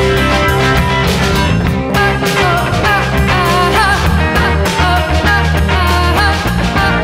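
Live rock band playing: guitars, bass and drums with a wavering sung or lead melody on top, steady and loud.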